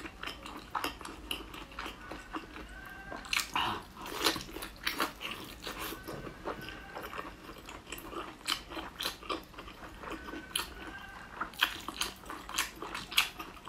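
Close-up mouth sounds of someone eating soft, chewy braided lamb intestines: biting, wet chewing and sucking, with many small irregular clicks.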